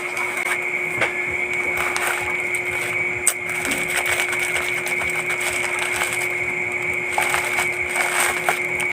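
A small utility knife slicing and scraping through plastic parcel packaging, a continuous scratchy crackle with scattered little clicks. A steady high tone runs underneath.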